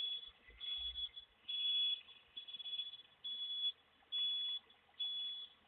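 Garbage truck's reversing alarm beeping at a steady high pitch, about one beep a second.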